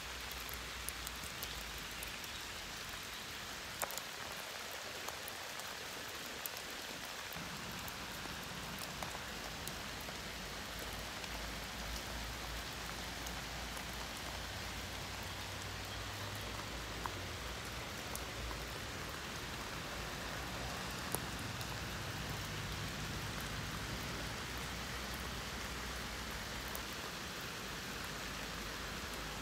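Steady rain, with scattered drops tapping close by. A low rumble joins about seven seconds in.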